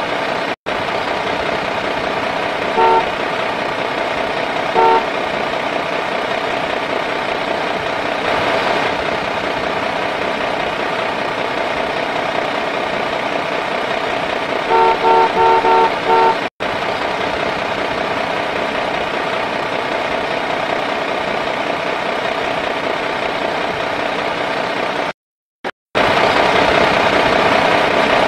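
Dubbed-in truck engine sound effect running steadily, with short horn honks laid over it: single toots about three and five seconds in and a quick run of five around fifteen seconds. The sound drops out to silence for about a second near the end.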